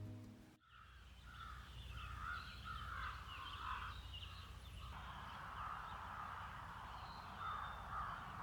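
Background guitar music cuts off about half a second in, then birds call repeatedly outdoors over a steady low rumble.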